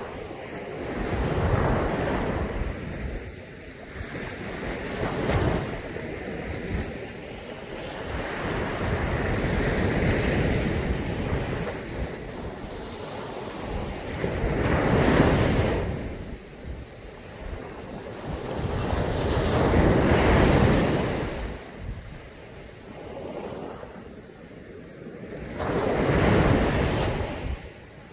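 Caribbean Sea waves breaking on a beach and washing back, each surge swelling and falling away every four to six seconds.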